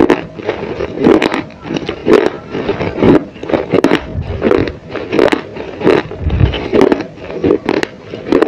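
Close-miked chewing of crunchy baked clay, a gritty crunch about two or three times a second, right at a small microphone held by the mouth.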